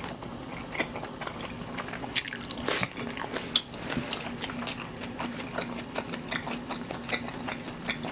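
A man chewing food close to the microphone: wet smacking and clicking chews, with one sharp click about three and a half seconds in. A low steady hum runs underneath.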